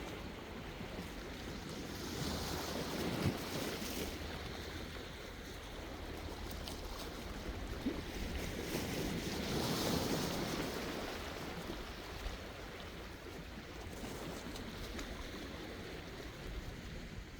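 Sea waves washing in, in two swells, about two seconds in and a louder one about nine seconds in, over a steady low rumble of the sea.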